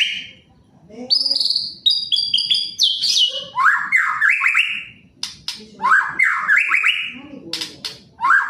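Male white-rumped shama (murai batu) singing a varied song. It opens with high whistled notes, then repeats phrases of rapid rising notes, with sharp clicking notes in between.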